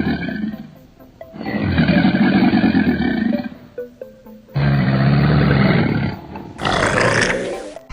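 Lion roaring in long, deep calls, about three in a row, each lasting close to two seconds. Near the end comes a shorter, harsher growl.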